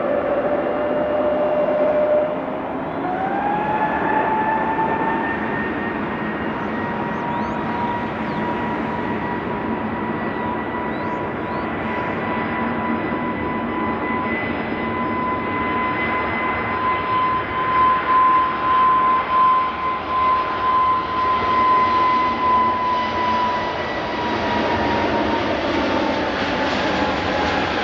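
Aircraft engines running with a steady high whine over a rushing noise; the whine rises in pitch about three seconds in, holds, and sinks slightly near the end.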